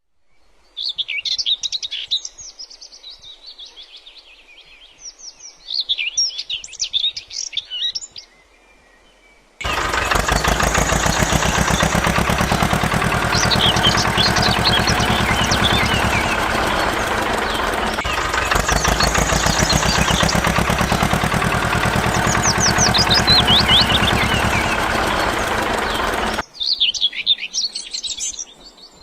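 Small birds chirping and twittering in short bright bursts. From about ten seconds in, a loud, steady machine-like buzz with a fast, even pulse cuts in abruptly and stops just as suddenly some sixteen seconds later, with the chirping going on over it.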